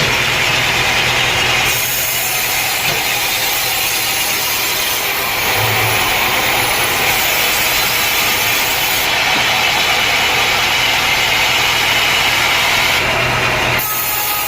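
Sawmill machinery running: a loud, steady engine-driven drone with a sawing hiss, the mix shifting abruptly a few times.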